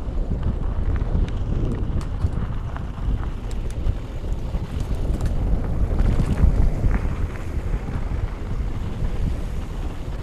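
Wind buffeting the microphone on a fast mountain bike descent, with scattered clicks and rattles from the bike over the trail.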